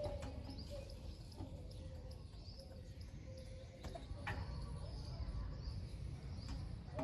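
Faint outdoor background with birds chirping and a few scattered light clicks.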